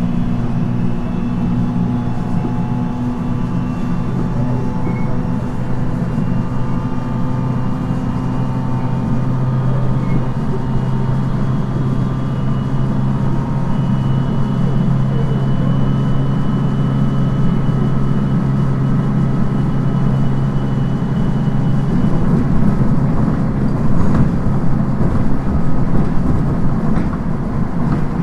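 Onboard running sound of a JR East 719 series electric train, recorded binaurally: a steady motor and gear hum with several held tones over the rumble of wheels on rail. About 22 seconds in, the strongest low hum drops away and the wheel rumble grows rougher and louder.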